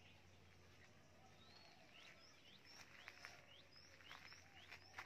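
Faint birds calling in the background: many short, quick rising chirps, repeated over and over. A few soft clicks come in the second half.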